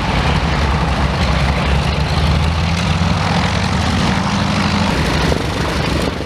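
Propeller aircraft's piston engine running loud and steady, a deep drone with a rushing noise over it, easing slightly near the end.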